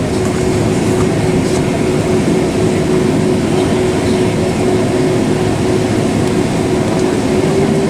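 Steady engine and airflow rumble inside a Boeing 767-400 passenger cabin, with a constant hum running through it.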